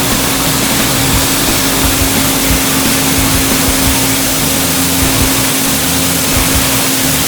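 The Ford industrial engine powering a homemade band sawmill, running steadily with a constant hum.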